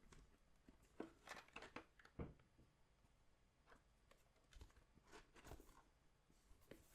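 Faint crinkles, rustles and small clicks of a trading-card box and its packaging being handled, coming in short scattered bunches.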